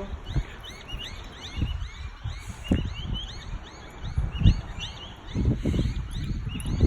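Birds chirping over and over in short arched notes, several a second, with irregular low thuds and rumbling underneath.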